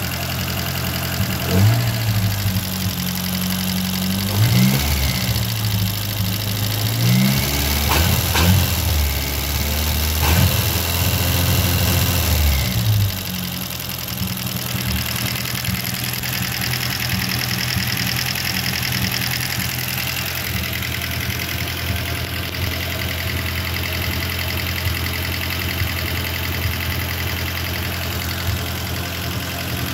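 Four-cylinder car engine running on a home-built CDI ignition triggered by an A3144 hall-effect sensor in the distributor. It is revved up and down several times over the first dozen seconds, then settles to a steady idle.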